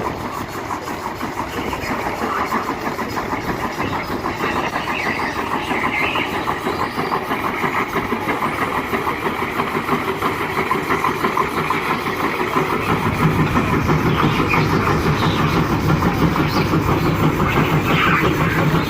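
Tractor engine running with a rapid, even firing beat, growing louder about two thirds of the way in.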